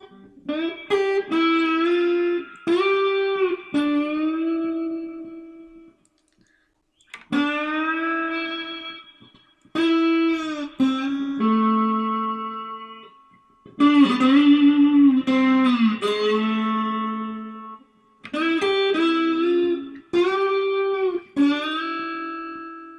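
Guitar played with a slide, playing several slow phrases of the intro lick. The notes glide up into pitch and are held with a wavering slide vibrato, with a pause of about a second around six seconds in.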